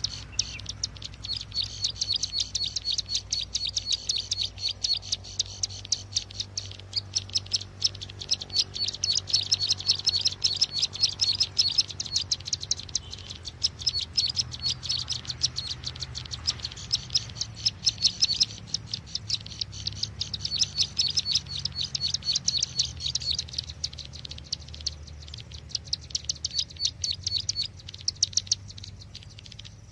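Fast, repeated high chirping of a ciblek sawah, a small prinia-type warbler, in a lure call for trapping birds. The chirps run in long phrases with a few short lulls, over a faint steady low hum.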